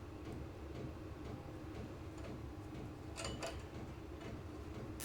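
A few faint clicks and small handling noises from hands working on the lawn mower's parts, about three seconds in and again near the end, over a steady low hum.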